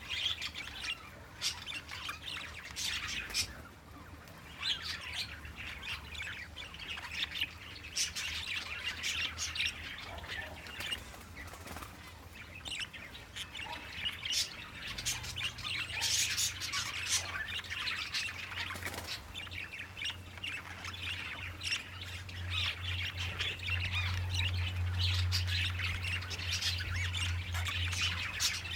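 A bonded pair of budgerigars chattering with quick, short chirps and squawks, with a low steady hum underneath that grows louder in the second half.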